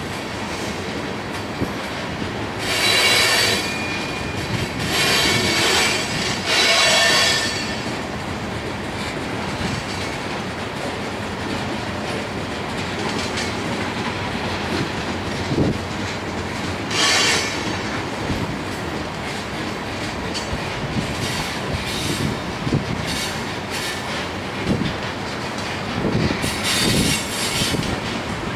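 Loaded coal train's cars rolling past: a steady noise of steel wheels on rail. Bursts of high-pitched wheel squeal come a few seconds in, again around the middle, and near the end.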